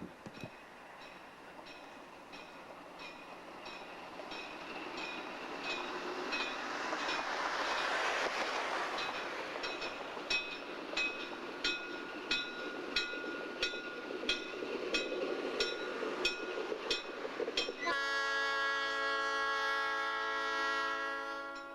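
Air Force locomotive 4040 hauling empty coal hopper cars, the wheels clicking steadily over the rail joints. About three-quarters of the way through, the locomotive's horn sounds once and is held for three to four seconds.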